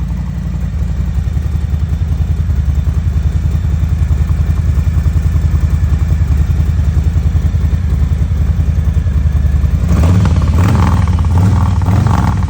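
Harley-Davidson Low Rider's V-twin engine idling with a steady, even pulse. About ten seconds in, the sound turns harsher and fuller.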